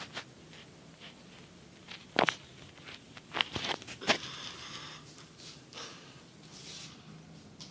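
A handful of sharp clicks and knocks from hands handling small hard parts, loudest about two seconds in and in a quick cluster around three to four seconds, followed by a short hiss.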